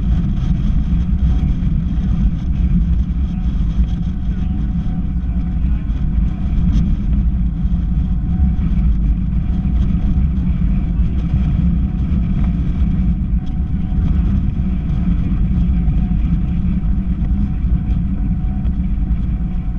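Strong gusty wind rumbling and buffeting against the microphone, a loud, unsteady low rumble with no pause.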